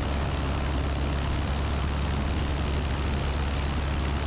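Piper Archer PA-28-180's Lycoming four-cylinder engine and propeller running in flight, a steady drone with a deep hum under a rush of air noise.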